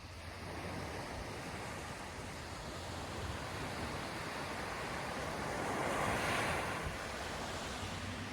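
Ocean surf breaking on a beach: a wave's wash builds, is loudest about six seconds in, then eases. A low wind rumble on the microphone runs underneath.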